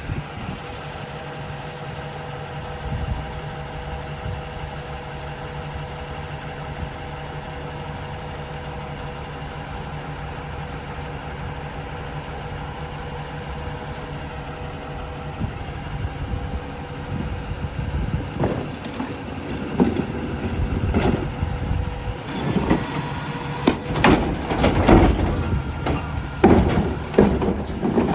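Mack rear-loader garbage truck's diesel engine idling steadily. From about halfway through, a run of irregular bangs and clatter grows louder, with a brief high hiss in the middle of it.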